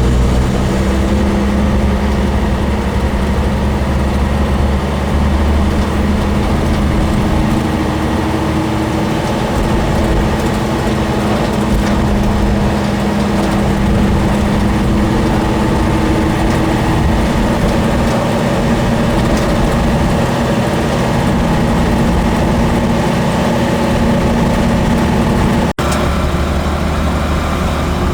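Deuce-and-a-half military truck engine running steadily as the truck gets under way, a low, even drone with no revving. It breaks off for an instant near the end and carries on.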